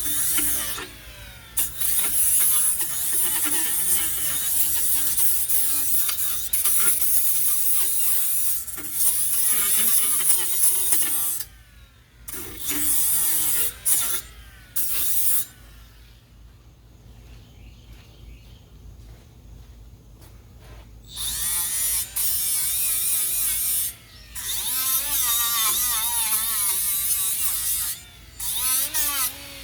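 Handheld power tool running in several long bursts with quieter pauses between, its pitch wavering as it works.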